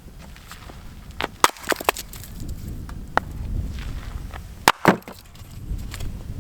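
Firewood being split: sharp knocks and splintering cracks, a quick cluster about one to two seconds in, another crack near three seconds, and the two loudest strikes just before five seconds.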